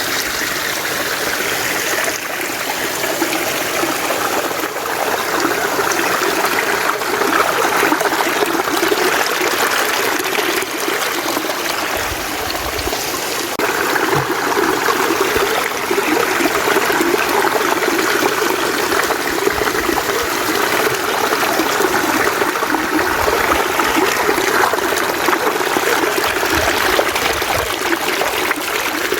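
Mountain stream flowing over rocks: a steady rushing, babbling water sound.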